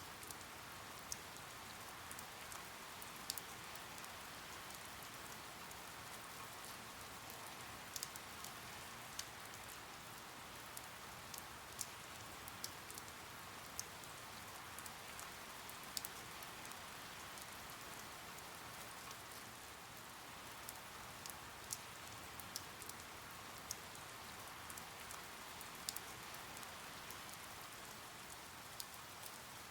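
Soft, steady rain ambience: an even hiss of rainfall with scattered single drops ticking out above it.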